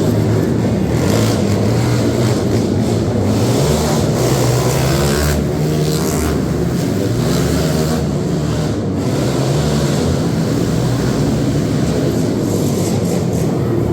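Loud motor-vehicle engines running steadily, their pitch wavering a little without any big rev.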